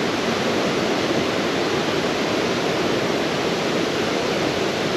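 Creek water rushing steadily over rocks, an even wash of noise.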